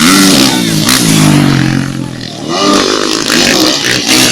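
Motocross dirt bike engines revving hard on the track. The pitch climbs and drops with the throttle: a rise near the start, a steadier stretch, then another climb a little under three seconds in.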